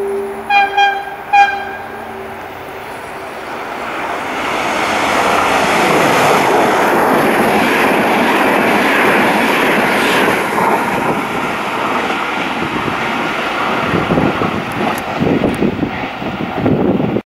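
An FS Class E464 electric locomotive's horn: a held low tone, then three short, loud higher blasts. The roar of the locomotive and its double-deck coaches passing at speed follows, with wheels clattering over rail joints near the end, and the sound cuts off suddenly.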